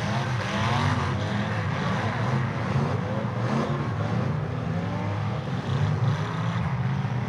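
Demolition derby car engines revving hard, their pitch repeatedly rising and falling. One engine is being pushed hard to drive a stuck car out of a rut.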